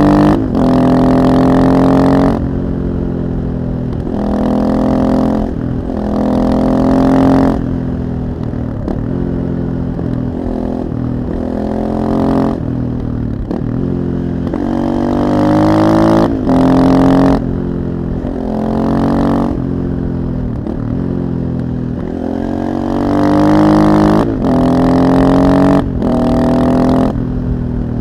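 KTM 640 supermoto's single-cylinder four-stroke engine through an Akrapovic exhaust, ridden hard: the revs climb again and again in loud bursts under open throttle, then drop back each time the throttle closes.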